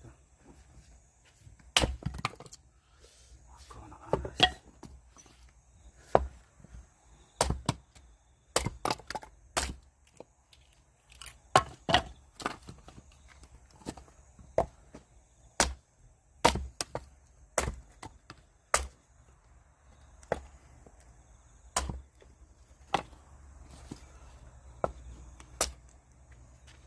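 Firewood being chopped: a long run of sharp, separate wooden strikes, roughly one a second and now and then in quick pairs, as the logs are split into camping firewood.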